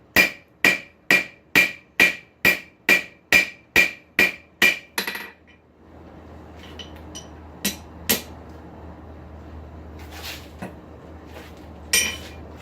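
Blacksmith's hammer ringing on hot steel in a nail header, forging a nail head: about a dozen evenly spaced blows, two a second, that stop about halfway through. After the blows come a low steady hum and a few separate metal clinks.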